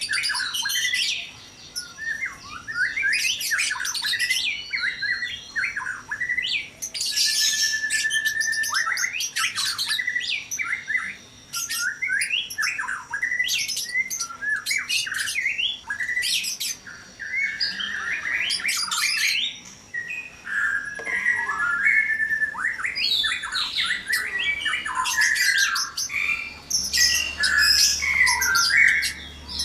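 White-rumped shamas calling and singing: a dense, almost unbroken run of sharp whistles, chips and harsh squawking notes with only brief pauses.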